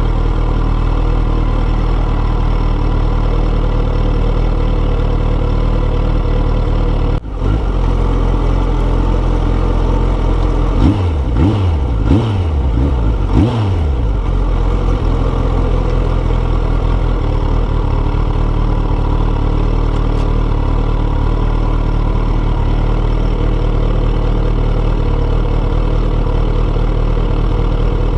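Kawasaki ZX14R's inline-four through a Yoshimura exhaust, running steadily under way. There is a brief drop about seven seconds in, and the revs swing down and up several times between roughly eleven and fourteen seconds.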